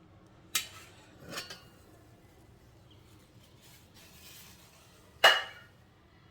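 Kitchenware being handled: a few sharp clinks and knocks of dishes or utensils with a brief ring. The last knock, a little after five seconds in, is the loudest.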